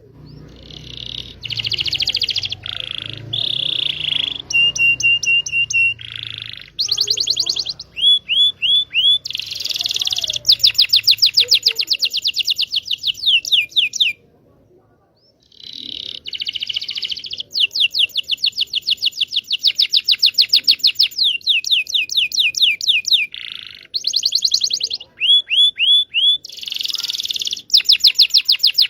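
Domestic canary singing a long, loud song of fast repeated trills and buzzy rolls, breaking off for a moment about halfway through. It is canary lure song, meant to prompt young canaries to learn to sing.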